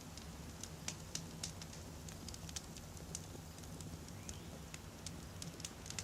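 Wood campfire burning: a steady low rumble of flames with irregular sharp crackles and pops of burning logs, several a second.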